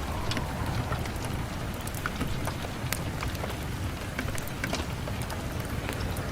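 Recorded rain ambience: a steady hiss of rain with frequent small sharp ticks and crackles scattered through it.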